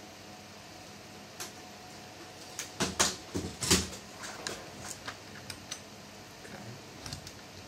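Clicks and knocks of a laptop's plastic casing and small parts being handled: a cluster of louder knocks about three seconds in, then scattered light clicks.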